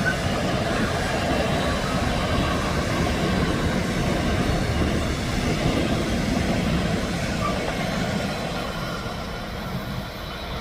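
Train running past on the line: a steady rumble of wheels on rails that begins to fade away near the end.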